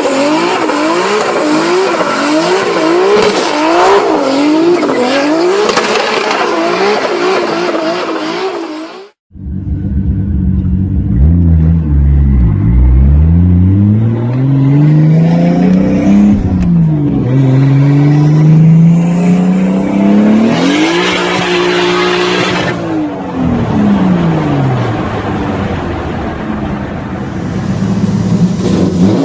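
Turbocharged car engines revving hard in two clips. First an engine note swinging quickly up and down, about one and a half times a second, with tyre squeal over it. Then, after a sudden cut, an engine revved up and down in several long sweeps, held high for a moment before dropping away.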